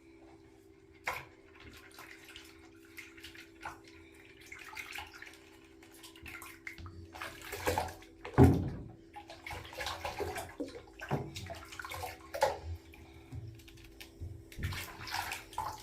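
Bath water sloshing and splashing in irregular bursts as a small child moves and plays in the tub, the loudest splash about eight and a half seconds in. A steady low hum runs underneath.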